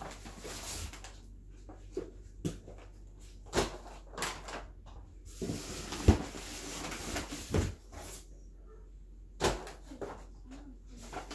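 Boxed firework cakes being handled: irregular knocks and thumps of cardboard cases being moved and set down, with scraping and rustling between them.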